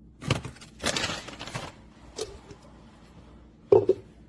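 Ground coffee being scooped and tipped into a glass French press carafe: gritty rustling and scraping for the first second or two, a small click about two seconds in, and a louder short knock near the end.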